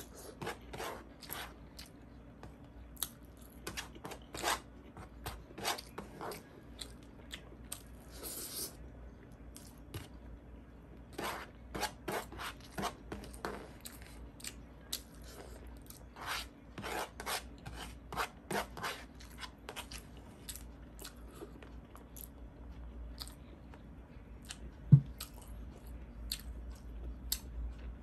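Close-miked eating: chewing and crunching of food with wet mouth clicks, coming in runs of a few chews a second with short pauses between. One sharp, much louder thump shortly before the end.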